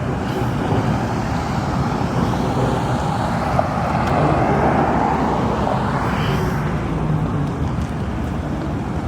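Street traffic noise from motor vehicles, with one vehicle passing that swells and fades about halfway through.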